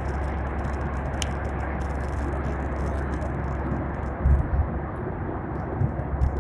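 Steady rumble and rushing noise of an airliner cabin, with a few short low thumps over the last two seconds.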